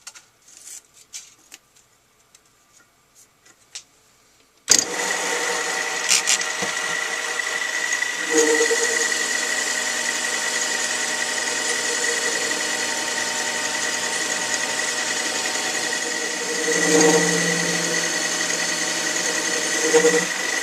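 A few faint clicks, then about a quarter of the way in a small metal lathe switches on suddenly and runs steadily with a whining motor tone, swelling briefly twice.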